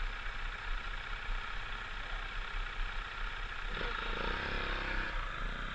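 Dirt bike engine running at low revs, with the engine note rising briefly about four seconds in.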